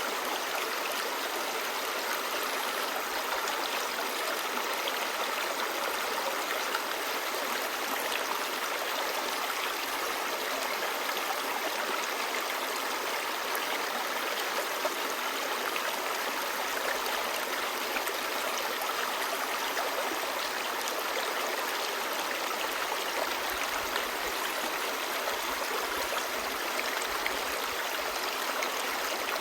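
Clear stream babbling, a steady, unbroken rush of running water.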